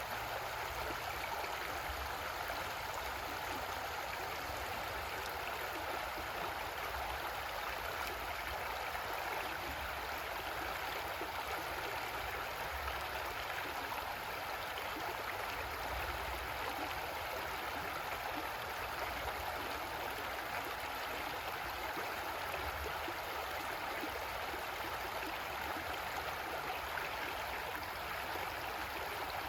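Creek water flowing steadily over rocks: an even, unbroken rushing with a light gurgle.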